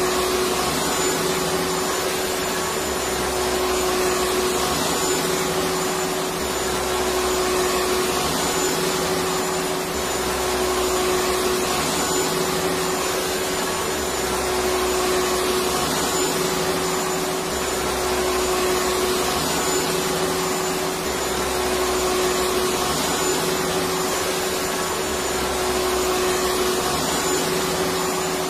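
Electric vacuum cleaner running steadily: an even motor hum and airflow hiss, with a low rumble that swells and fades about every two seconds.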